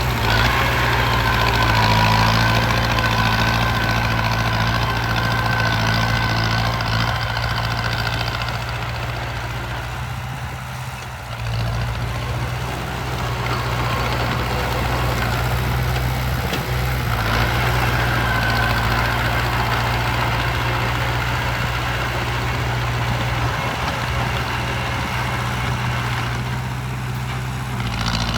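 Heavy construction machine's diesel engine running steadily, easing off briefly about ten seconds in.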